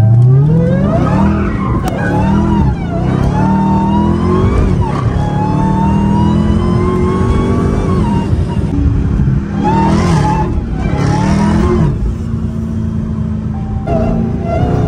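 Dodge Hellcat's supercharged 6.2-litre V8 accelerating hard, heard from inside the cabin. The engine note climbs and drops back at each upshift, several times over.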